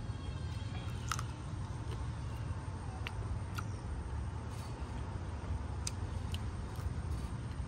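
Deep-fried spiders being pulled apart and chewed: a few short, crisp crunches over a steady low rumble.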